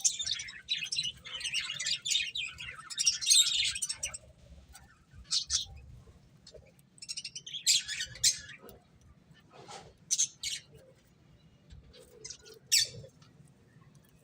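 Finches chirping: a busy flurry of overlapping high chirps for about the first four seconds, then scattered single chirps with short gaps between them.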